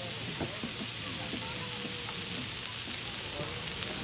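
Pork and potato slices sizzling steadily in hot oil on a tabletop grill pan.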